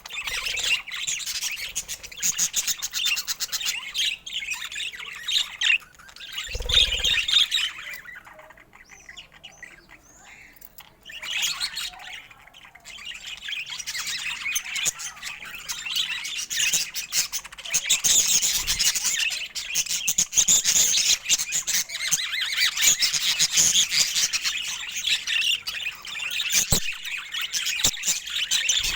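Budgerigars chattering and chirping in a dense, fast warble of high squawks and tweets, easing off for a few seconds about a third of the way through before picking up again.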